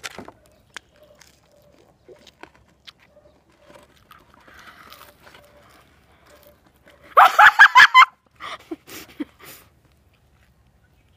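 Faint chewing and mouth clicks of people eating chicken nuggets. About seven seconds in comes a loud burst of about six quick, high-pitched calls lasting under a second, then a few fainter ones.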